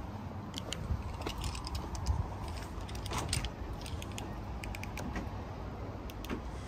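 BMW X1 20d's two-litre diesel engine idling, a steady low rumble from the exhaust, with scattered light clicks and scuffs of footsteps on gritty tarmac.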